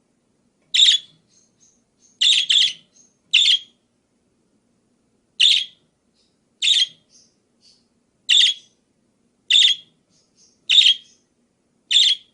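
Pet parakeet giving short, sharp chirping calls, about ten of them spaced roughly a second apart, a couple in quick pairs.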